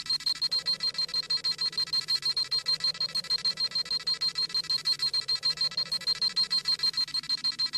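Dragon Ball Z scouter sound effect: rapid, high electronic beeping at about six beeps a second, the scouter scanning a power level.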